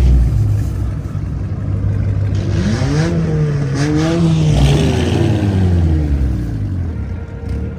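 Car engines running hard. One engine revs up and back down in a long rise and fall of pitch through the middle.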